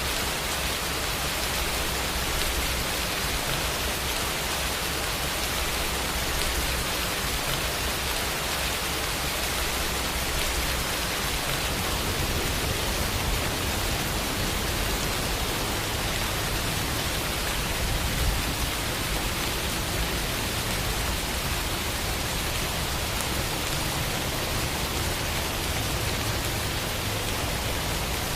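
Steady rain falling, an even hiss with no thunder or other sounds.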